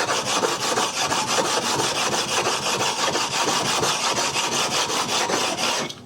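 Water stone being rubbed back and forth on an abrasive surface to flatten it: a loud, gritty scraping in rapid, even strokes that stops abruptly near the end.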